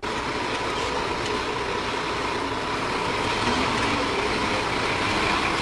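Heavy truck engine running steadily, under a steady rushing noise.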